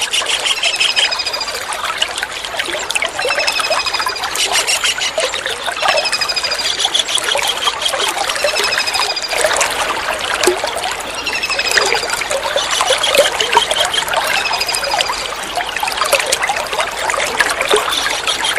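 Small kingfisher (tengkek udang) calling a short, high, slightly falling note over and over, about every two and a half seconds, over steady trickling water.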